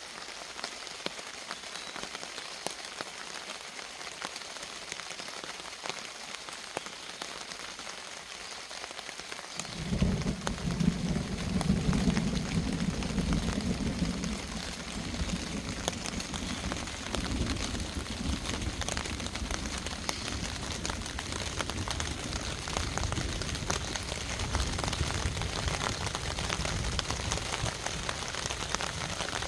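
Steady rain falling throughout. About ten seconds in, a deep rumble of thunder sets in after a lightning flash, loudest for the next few seconds, then trailing off under the rain.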